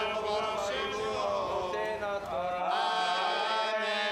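A voice singing a slow, ornamented chant, its pitch sliding between held notes. About two and a half seconds in the recording changes: the low background rumble drops away and a steady low tone sits under the voice.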